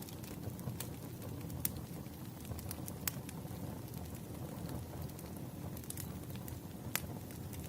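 Campfire crackling: a steady low rush of burning wood with scattered sharp pops and snaps, a few of them louder.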